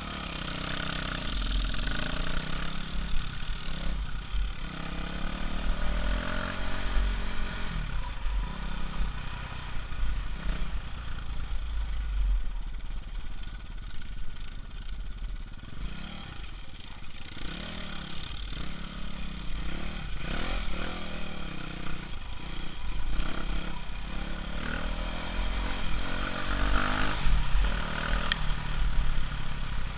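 Off-road bike engine being ridden, its pitch rising and falling repeatedly as the throttle is opened and closed, over a steady low rumble.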